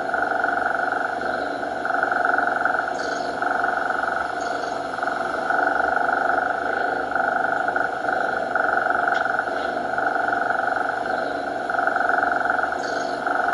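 A domestic cat purring steadily, with a rhythmic rise and fall about once a second as it breathes in and out; the recording repeats as a loop.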